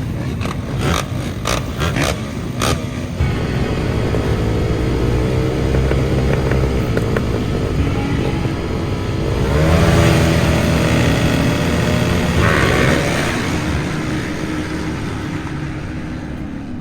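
Motocross dirt bike engine running and revving, its pitch gliding up and down, loudest in a rise about ten seconds in. Sharp clattering knocks in the first few seconds.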